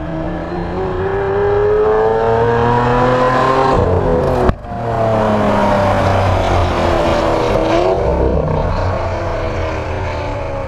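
Lamborghini Aventador LP700-4's V12 running through an Fi Exhaust, revving hard and climbing in pitch as the car accelerates along the track. There is a sudden break about four and a half seconds in, then a second climb, and the pitch falls away in the last few seconds as the car passes.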